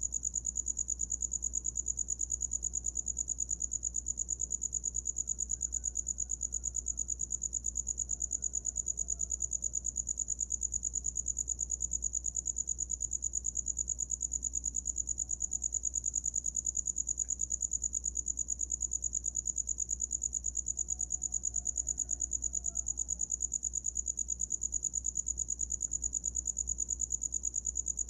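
A cricket singing a continuous, fast-pulsing, high-pitched chirp that never breaks, over a faint low steady hum.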